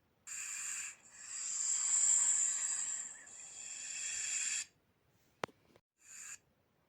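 Snake hissing in separate breaths: a short hiss, then a long hiss of about three and a half seconds that swells and fades. A sharp click comes about five and a half seconds in, then another short hiss.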